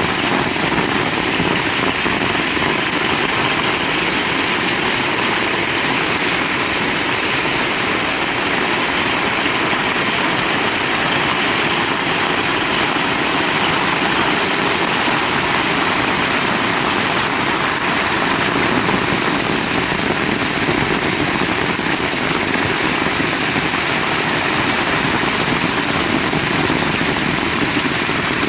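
Heavy rain falling steadily, a dense unbroken hiss at an even level.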